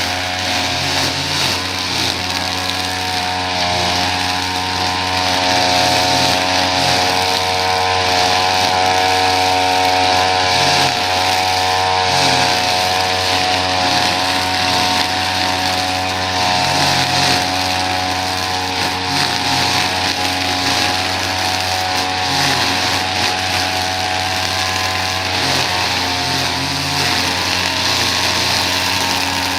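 Small petrol engine of lawn-care equipment running steadily, its pitch held even throughout.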